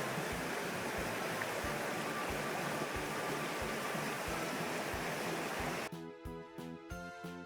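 Rushing water of a river swollen after a typhoon, a steady loud hiss, with background music and its regular beat running underneath. The water sound cuts off suddenly about six seconds in, leaving only the music.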